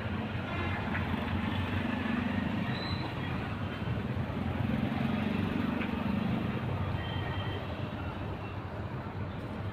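Steady low rumbling background noise, swelling a little twice, with a few faint short high tones over it.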